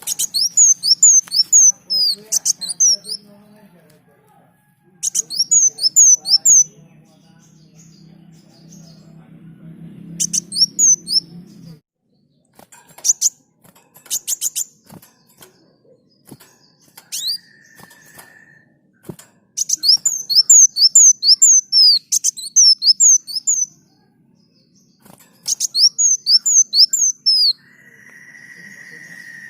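Kolibri daun songbird singing in repeated bursts of rapid, high, sharply falling notes, each burst lasting one to three seconds with pauses between. Twice a steady held whistle-like note sounds, once about two-thirds of the way in and again at the very end.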